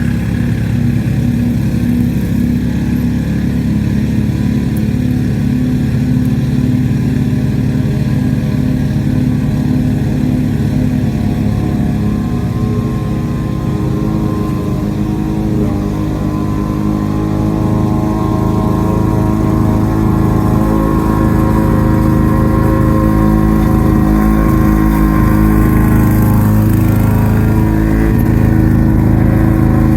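Lawn-Boy walk-behind mower's two-stroke engine running steadily, with its note shifting and dipping slightly about halfway through, then running a little louder.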